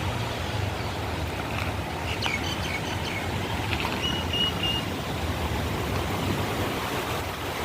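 Steady rushing noise with a low hum underneath, and a few faint short high-pitched chirps or squeaks in the middle.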